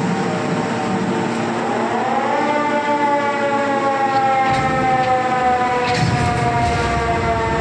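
Wagon tippler in operation: a loud, siren-like whining tone that rises in pitch about two seconds in and then slowly falls, with low rumbling and knocks of the machinery and wagon starting in the second half.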